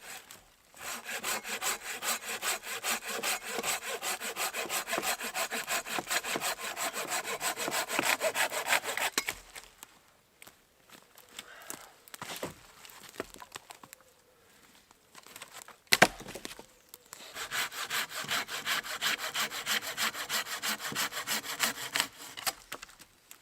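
Hand saw cutting through dead branch wood in fast back-and-forth strokes, in two long spells. Between them comes a pause with a single loud, sharp crack, like wood snapping.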